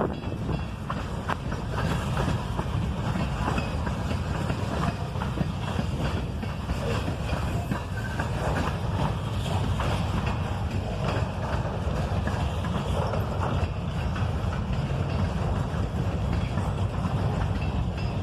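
Freight train rolling past: a steady low rumble of railcars on the track, with scattered clicks and clanks from the wheels.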